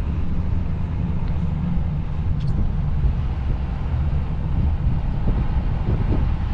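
Steady rumble of a vehicle's engine and road noise heard while driving, with no sharp events.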